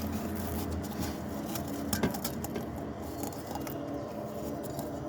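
Crunchy ice being handled, giving scattered crunches and clicks over a steady low hum.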